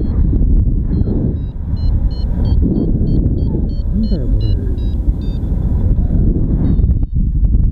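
Free-flight variometer beeping in short quick pulses that shift in pitch, its climb tone signalling rising air, over heavy wind rushing across the microphone. The beeping stops about five seconds in and returns briefly near the end.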